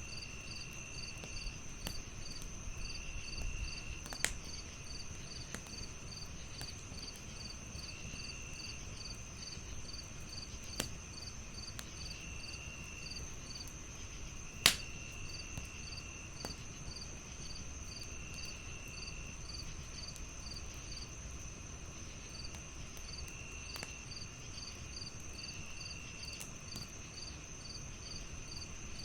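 Crickets chirping steadily in several voices at once: a continuous high trill, rapid regular chirps about three a second, and shorter trills of about a second that come and go. Now and then comes a sharp pop of a wood fire crackling, the loudest about halfway through.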